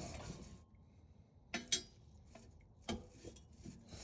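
Metal scraping fades out, then a few sharp metallic clicks and taps as the NGT exhaust midpipe is worked loose from the downpipe joint.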